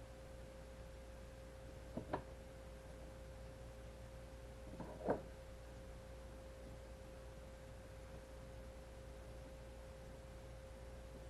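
Small clicks from plastic cable-holder parts being handled and snapped into place: two close together about two seconds in and a sharper one about five seconds in. They sit over a faint steady hum with a single high tone.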